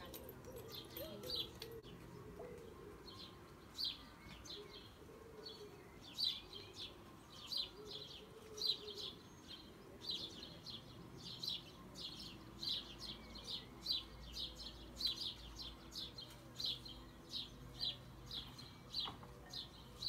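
A small bird chirping over and over, faint short high chirps that come about twice a second after the first few seconds.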